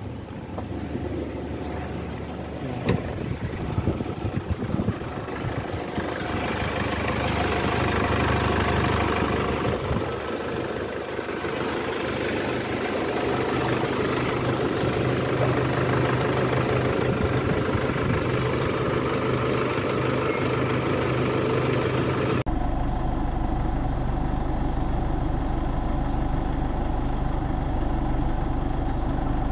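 Vehicle engine idling steadily, with a short click about three seconds in. About two-thirds of the way through, the sound changes abruptly to a deeper, duller hum.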